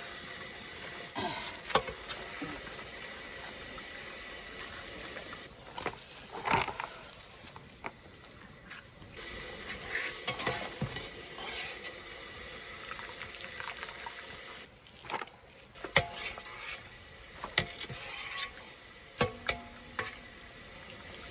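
Cooking-work sounds: scattered clinks, taps and knocks of utensils and food being handled, over a steady low hiss.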